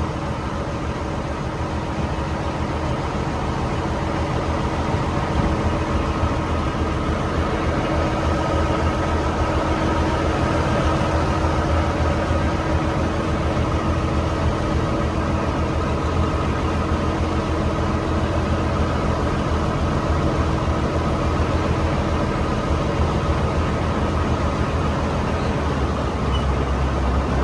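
Boat engine running steadily: a constant deep hum with a higher steady tone above it, over a wash of noise.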